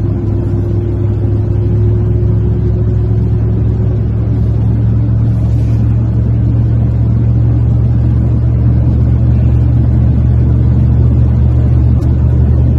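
Classic car's engine and road noise while driving: a steady, loud low drone.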